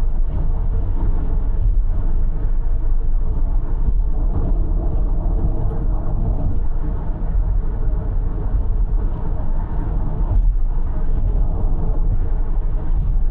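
Steady low rumble of a car driving at expressway speed: tyre, road and engine noise with no distinct events.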